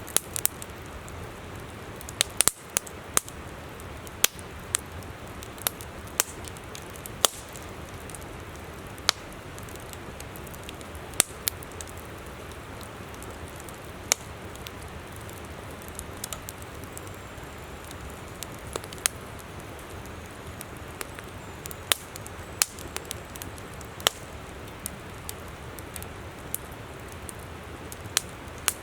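Wood campfire crackling, with irregular sharp pops and snaps, over the steady rush of a flowing river.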